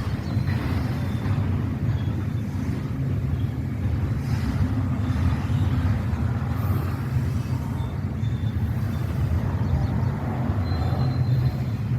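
Freight train rolling past, a steady low rumble of wheels on rail that never lets up.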